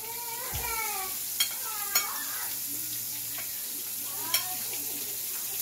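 Flour-coated prawns frying in a skillet on medium-high heat, a steady sizzle. Over it come three sharp clicks and a few short squeaks from handling at the counter.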